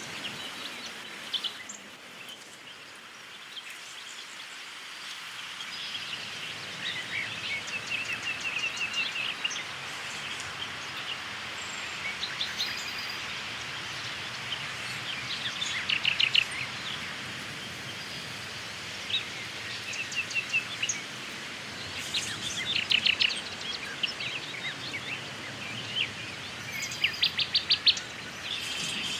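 Wild songbirds calling: repeated short chirps and quick trills, some louder bursts near the middle and toward the end, over a steady background hiss.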